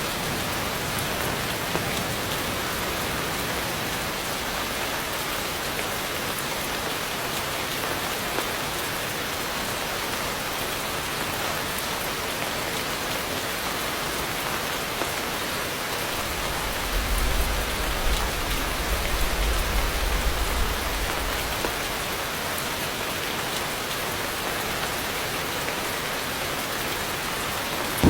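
Heavy rain falling steadily: a constant hiss of drops on surfaces. A low rumble comes in for a few seconds about two-thirds of the way through.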